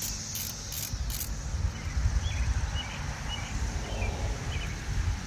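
Ratchet wrench clicking in a quick even run as a bolt on the Jeep's alternator mount is turned, stopping about a second in. After that there is a low rumble of outdoor air and a few faint chirps over a steady high hiss.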